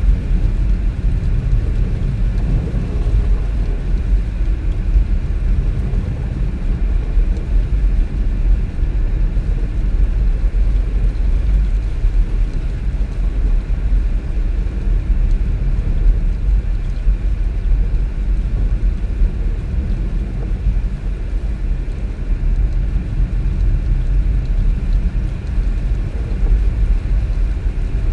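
Steady low rumble of a moving vehicle: engine and road noise with no break.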